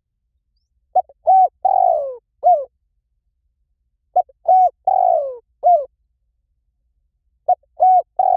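Spotted dove cooing. A short note, a rounded coo, a long falling coo and a last coo make up one phrase, and the phrase comes three times, about three seconds apart. It is a recorded lure call, played to draw wild spotted doves in.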